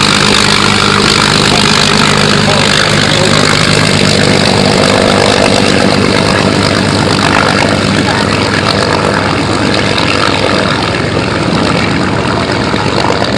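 Aircraft engine running loud and steady, easing off slightly and growing duller toward the end.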